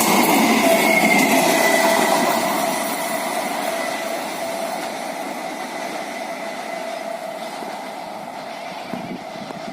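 Indian Railways EMU (electric multiple unit) passenger train running past and moving away, its noise fading after a couple of seconds, with a steady high whine throughout.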